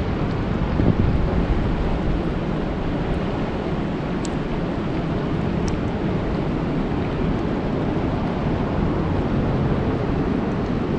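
Steady rain falling on a lake's surface: a dense, even wash of water noise, with a couple of faint sharper drop ticks about four and six seconds in.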